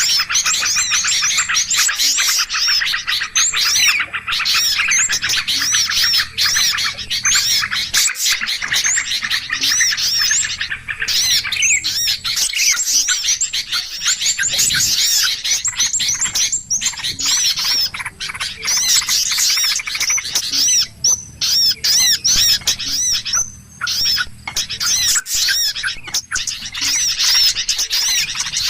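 Dense flock of small birds chirping rapidly and continuously, many short, overlapping high calls. This is a bird-lure (pikat) recording meant to draw in birds of all kinds.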